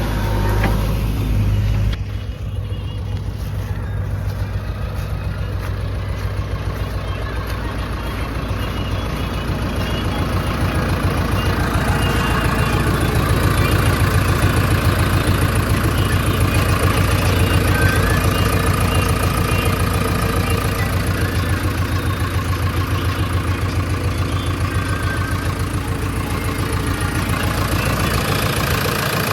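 Heavy diesel machine engine running steadily, its sound changing about two seconds in and growing a little louder in the middle.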